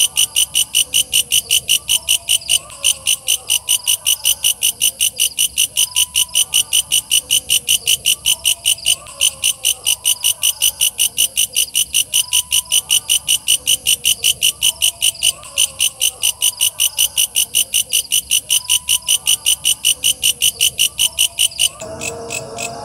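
Walang kecek singing insect calling in a loud, fast, even train of high chirps, about five a second. Near the end the chirping weakens and a different, lower sound comes in.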